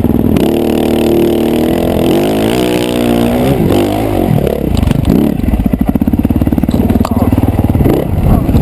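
Dirt bike engine running, its pitch holding steady, then dipping and climbing again as the throttle is worked, then a fast, rough pulsing of the exhaust.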